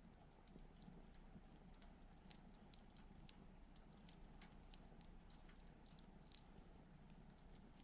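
Wood campfire crackling faintly: small irregular pops and snaps over a low steady noise, with a couple of louder snaps about four and six seconds in.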